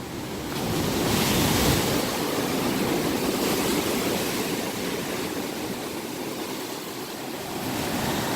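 Ocean surf washing in: a steady rush of breaking waves that swells up about a second in and stays loud.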